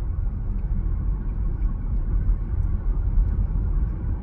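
Steady low rumble of a moving car, engine and tyre road noise, heard from inside the cabin.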